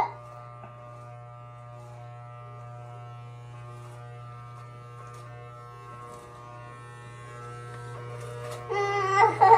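Electric hair clippers buzzing steadily during a haircut, the noise that frightens the child though it doesn't hurt him.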